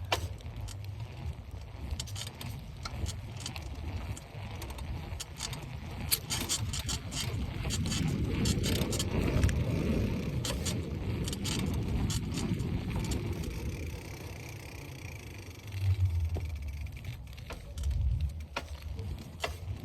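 Bicycle riding: rattles and clicks from the bike over a low wind rumble on the microphone. A louder swell of rolling tyre and wind noise builds about eight seconds in and eases off by about thirteen seconds.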